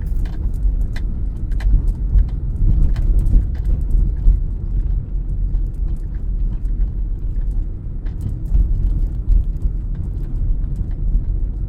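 Car driving, heard from inside the cabin: a steady low rumble of engine and road, with faint light clicks and rattles now and then.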